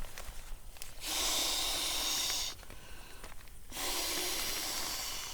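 Two long breaths blown into the valve of a Klymit Static V inflatable sleeping pad, each a rushing hiss lasting about a second and a half, with a short pause between them.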